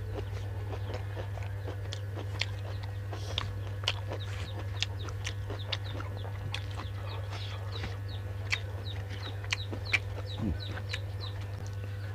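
Close-up mouth sounds of eating: scattered short wet clicks and smacks of chewing, spaced irregularly, over a steady low hum.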